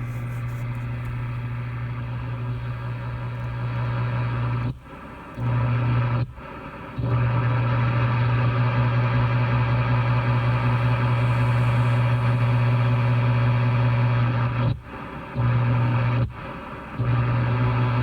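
Steady, loud machine drone with a deep hum and many overtones. It cuts out briefly twice in quick succession, and the same pair of short breaks comes back about ten seconds later.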